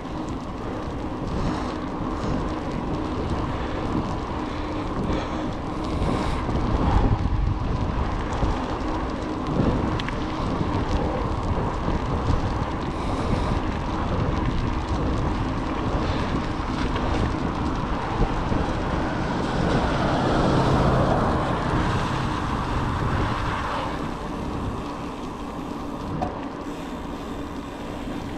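Wind rushing over the microphone of a moving rider, mixed with steady road and vehicle noise. It swells briefly about two-thirds of the way through.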